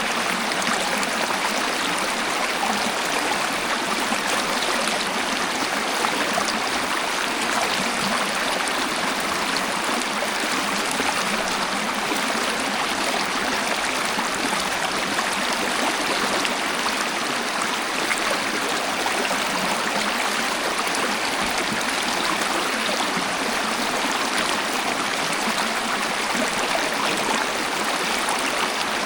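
Waterfall and flowing stream water rushing steadily.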